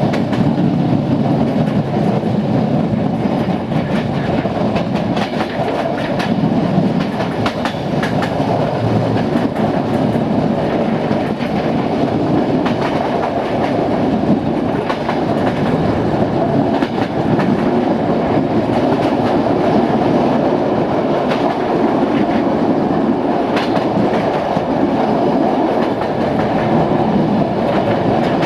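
Railway carriage wheels running steadily on jointed track: a continuous rolling rumble with rapid, irregular clicks from the rail joints.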